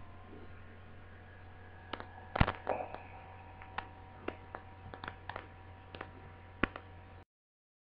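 Scattered light clicks and taps of handling on a workbench over a steady electrical hum, the loudest tap about two seconds in; the sound cuts off abruptly about seven seconds in.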